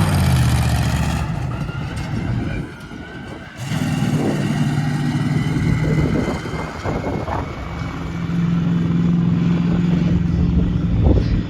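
A large vehicle engine running loudly, easing off a little over two seconds in, dropping back for about a second, then picking up again and holding a steady note.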